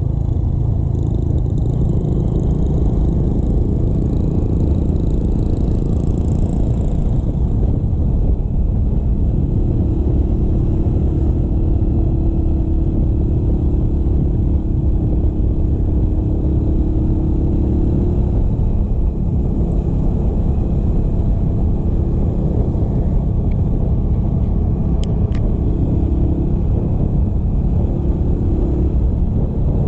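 Motorcycle on the move: a steady, loud low rumble of wind and road noise over the microphone, with the engine running underneath.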